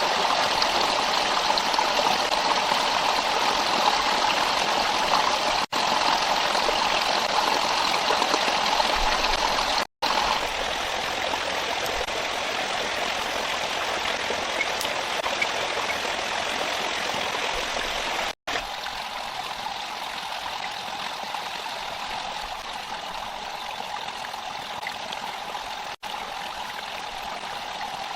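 Steady rush of flowing stream water, broken by a few very brief silent cuts; it is a little quieter after the cuts about ten and eighteen seconds in.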